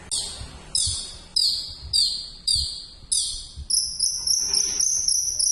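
A songbird in full song: six loud, high, sharp notes that each slide downward, a little under two a second, then a fast, high twittering trill for the last couple of seconds.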